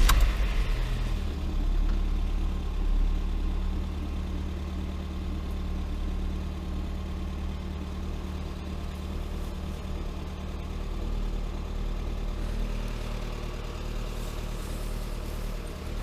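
Lada Granta's freshly rebuilt 126 engine, a 1.6-litre 16-valve four-cylinder, on its first start after the rebuild: it comes in loud and within about a second settles into a steady idle, running heavily.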